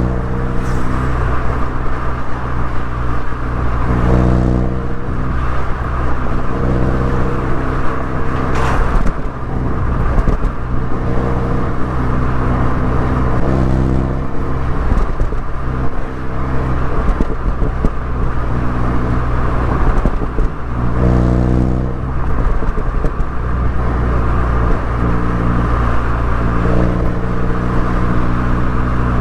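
MINI Cooper S four-cylinder engine and exhaust under way, its note rising and falling with the throttle and stepping up and down several times.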